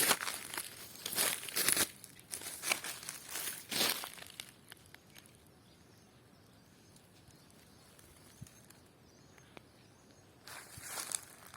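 Footsteps of a person walking on dry ground litter, about two steps a second, stopping about four and a half seconds in. Faint bird chirps follow in the quiet, and a short rustle of steps comes near the end.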